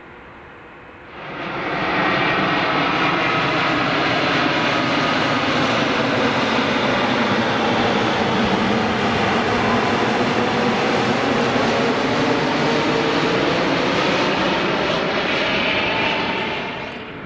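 Boeing 787-8 jet engines (Rolls-Royce Trent 1000) heard as the airliner lands close by. The engine noise swells about a second in, holds loud with tones sliding in pitch as it passes, then fades near the end.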